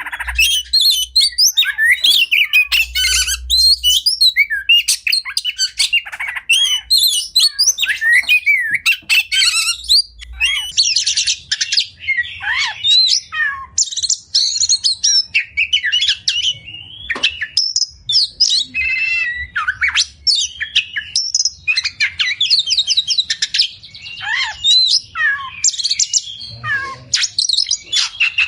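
Oriental magpie-robin (kacer) singing a continuous, varied song of clear whistles, fast trills and harsh squawking notes, phrase after phrase with hardly a pause.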